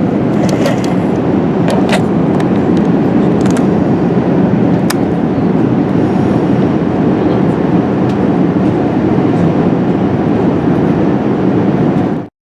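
Airbus A380 passenger cabin at cruise: a loud, steady rush of airflow and engine noise, with a few faint clicks, cutting off abruptly near the end.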